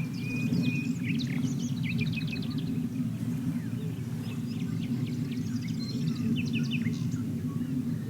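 Several small birds chirping and giving short rapid trills over a steady low rumble.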